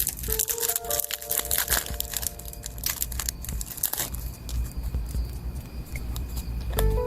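Packaging crinkling and tearing in dense crackles as stationery items are unwrapped, with soft sustained notes of background music.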